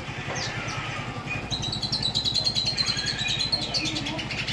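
Cungko songbird in full song: after a few scattered softer notes, it sings a fast run of high, rapidly repeated chirps for about two seconds, starting about a second and a half in. A steady low hum runs underneath.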